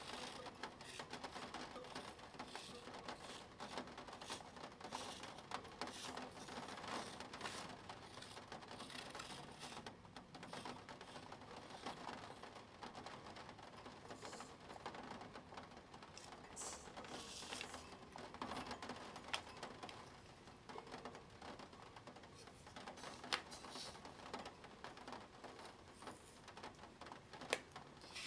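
Spirograph drawing: a pen scratching on paper as a plastic gear wheel is turned around its ring, a faint steady run of fine clicking and scratching, with a few sharper clicks in the second half.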